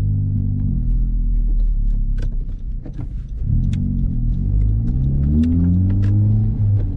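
Exhaust of a Honda Civic Type R with its muffler and resonator deleted, heard while driving: a steady drone, a brief lift around 3 seconds in, then the pitch rising as the car accelerates, with a short drop near the end.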